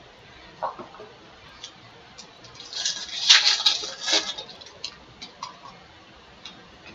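Trading cards and their pack wrappers being handled: a crinkling rustle for about a second and a half near the middle, with scattered light clicks of cards before and after.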